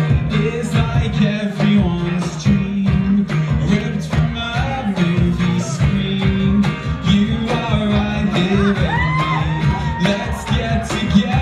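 Live band playing a pop song, with drums keeping the beat, bass and guitar, and a lead singer's voice over it.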